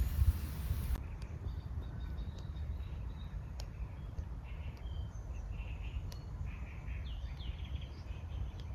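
Outdoor ambience of birds chirping in short, scattered calls over a steady low rumble, with a few sharp clicks. About a second in, a hiss stops abruptly.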